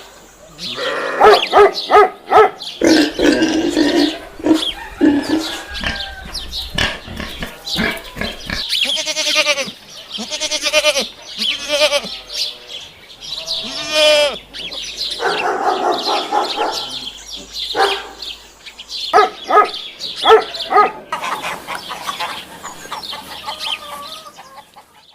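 A run of different farm animal calls one after another, some of them long calls with a wavering, quavering pitch.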